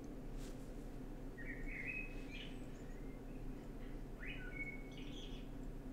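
Bird chirps in two short phrases, about a second and a half and four seconds in, over a steady low hum.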